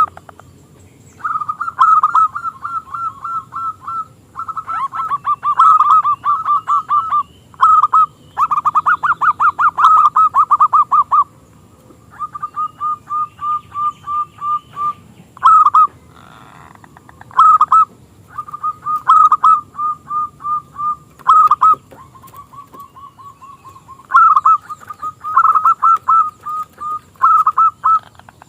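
Zebra dove (perkutut) cooing in quick runs of short, clipped notes. The phrases come one after another with brief pauses between them.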